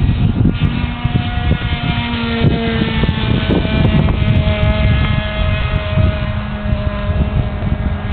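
Model airplane's .46 glow engine running at speed in flight, a buzzing tone that drifts slightly in pitch as the plane moves. Wind buffets the microphone underneath.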